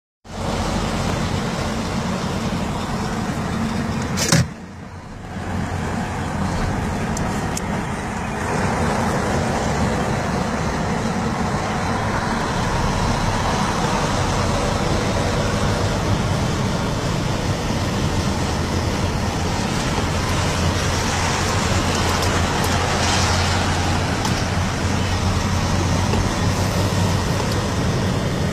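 Heavy truck's diesel engine running steadily, with a sharp click about four seconds in followed by a brief drop in level, then the engine a little louder after about eight seconds.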